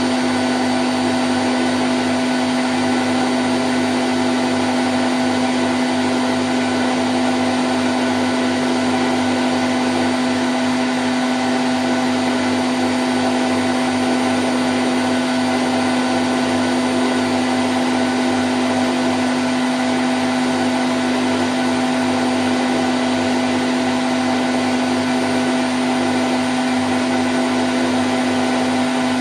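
Candy Grand O' front-loading washing machine spinning at 1000 rpm: a steady, even whirring with a strong constant hum and no change in speed.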